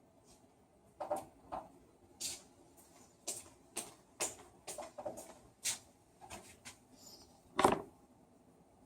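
Irregular sharp clicks and light knocks of small tools and parts being handled, about a dozen, the loudest one near the end.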